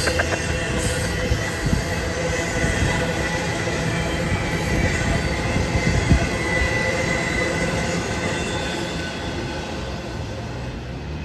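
A train rolling past: a steady rumble of wheels on rail with thin, high squealing tones from the wheels, and a single knock about six seconds in.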